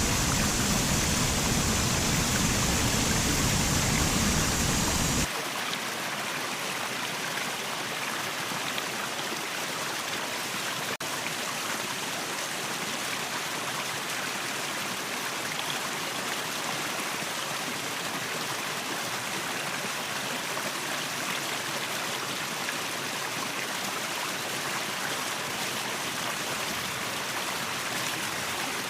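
Waterfall water rushing in a steady noisy roar. About five seconds in it changes abruptly to a lighter, softer rush without the deep rumble.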